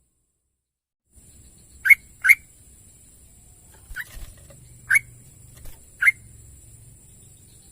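Yellow-vented bulbul (trucukan) giving five short, sharp call notes: two in quick succession about two seconds in, then three more spaced about a second apart.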